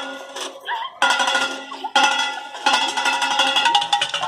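Percussion on recycled metal objects: rapid strikes over a steady metallic ringing tone, breaking off briefly about one and two seconds in.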